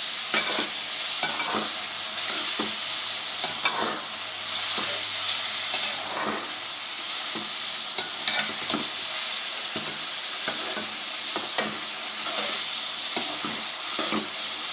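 Chicken pieces sizzling in hot ghee with garlic-ginger paste in a karahi, over a steady frying hiss. A spoon stirs and scrapes against the pan, with irregular knocks about once or twice a second.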